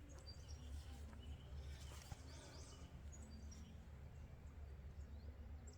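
Faint birdsong: scattered short, high chirps and whistles over a low, steady background rumble.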